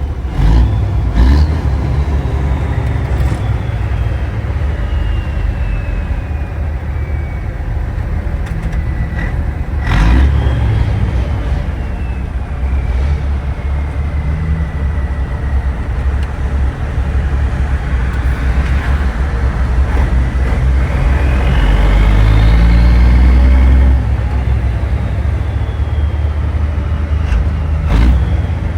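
Big-rig diesel engine running under way with heavy low rumble and road noise. A high whine slowly falls in pitch, then rises as the engine pulls harder and louder about two-thirds in, and cuts back suddenly. There are a few sharp knocks.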